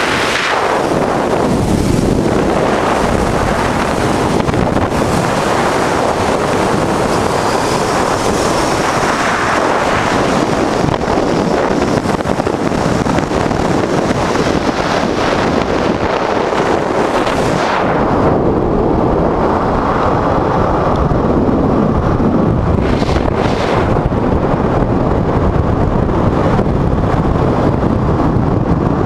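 Wind rushing over the microphone on a moving 1988 Honda Transalp motorcycle, its 600 cc V-twin engine running underneath. The high hiss of the wind eases about two-thirds of the way through.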